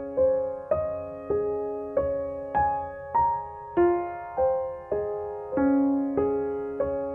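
Background music: a slow melody of single piano notes, one struck about every half second and each dying away.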